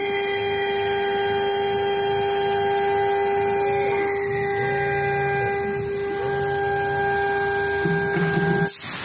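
STM1325-R1 CNC router running: its spindle gives a steady high whine with overtones, while the axis drive motors hum and glide up and down in pitch as the gantry moves. Near the end the sound changes abruptly to a hissy high-pitched noise.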